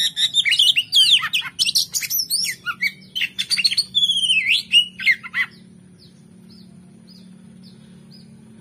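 Oriental magpie-robin (kacer) singing a rapid, varied song of sweeping whistles and sharp notes, which cuts off suddenly about five and a half seconds in. After that only faint short chirps remain, repeating about twice a second.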